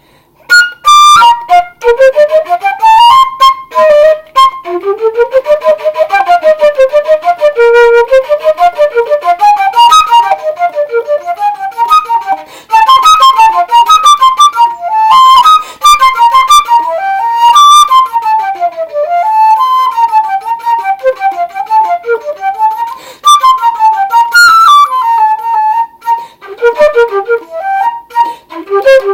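A solo woodwind instrument plays an etude: quick runs and leaps of single notes in a middle-high register, with short breaths between phrases. The recording is very loud and harsh, overloading on many notes.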